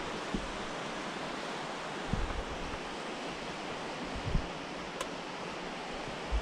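Steady outdoor hiss with wind buffeting the microphone a few times, and one sharp click about five seconds in.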